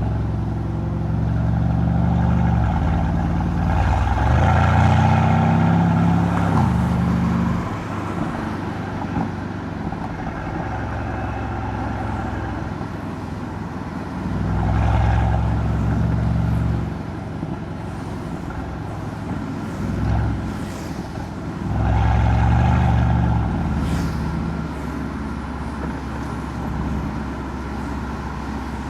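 Mercedes-AMG C63's twin-turbo V8 (M177) exhaust while driving. The engine pulls harder and rises in pitch about four seconds in, again around the middle and again after about twenty seconds, settling back to steady cruising in between.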